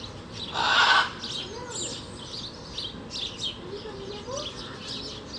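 Many birds chirping and calling in quick overlapping short notes, with one louder harsh burst lasting about half a second shortly after the start.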